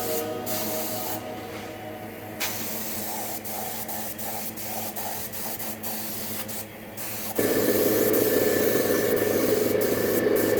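Compressed-air paint sprayer hissing steadily as paint is sprayed. About seven seconds in it becomes suddenly louder and fuller.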